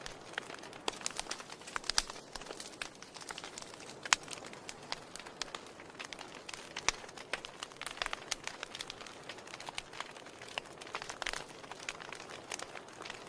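Wood fire in a fireplace crackling, with a low hiss and irregular sharp pops and snaps, the loudest about two and about four seconds in.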